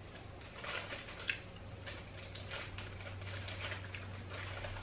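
Faint, irregular crunching of someone chewing Refreshers, hard fizzy fruit-flavoured candy tablets, with one sharper crunch about a second in.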